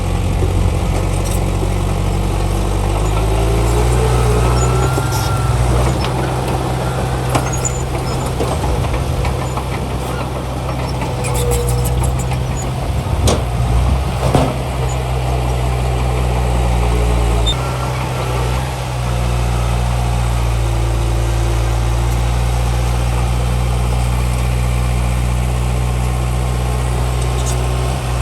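Heavy diesel earthmoving machinery running: a steady low engine drone whose note shifts a few times, with scattered clanks and a few brief squeaks.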